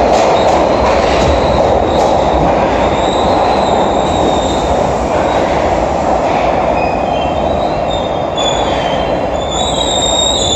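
New York City Subway 3 train rolling through the station: a loud, steady rumble of wheels on rail with a few clicks over rail joints near the start, and high-pitched wheel squeal growing stronger in the second half.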